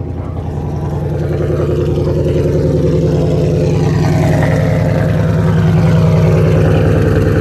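A car engine running steadily, gradually getting louder.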